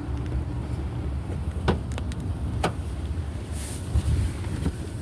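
2018 Nissan Rogue's 2.5-litre four-cylinder engine idling with a steady low rumble, with a few light clicks, a short hiss and a soft thump about four seconds in.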